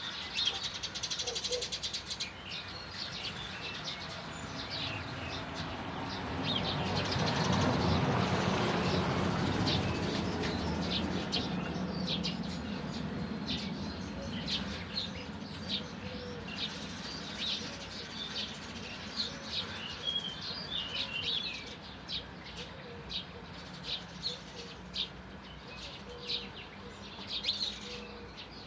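Songbirds chirping and singing, with short high calls repeating throughout. A broad low hum swells a few seconds in, peaks around ten seconds and fades; a fainter low drone lasts until about two-thirds of the way through.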